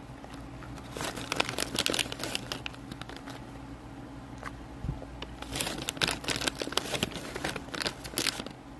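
Crinkling of a wrapper or packaging being handled, in two spells of crackling, the second one longer.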